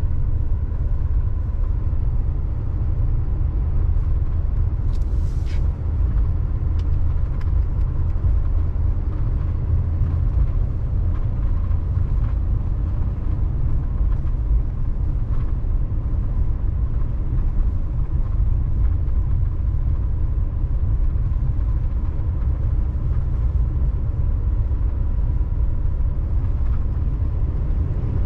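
Steady low rumble of a Chevy Silverado 3500 HD dually's 6.6-litre Duramax diesel V8 and road noise, heard from inside the cab while driving.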